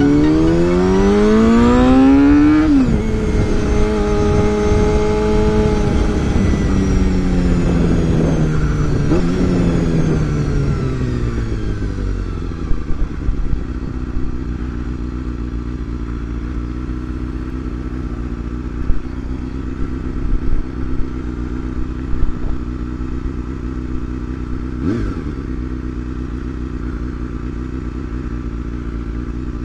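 Honda CBR250RR (MC22) 250 cc inline-four engine pulling hard with rising pitch, dropping sharply at an upshift about three seconds in, holding, then winding down with falling pitch as the bike slows. For roughly the second half it idles steadily, with a single sharp click near the end.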